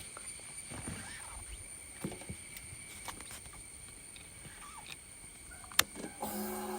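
Quiet handling clicks and rustles, then a sharp click near the end as the Suzuki Hayabusa's inline-four engine is started and catches straight into a steady idle. It breathes through a Yoshimura R77 exhaust with its dB killer removed.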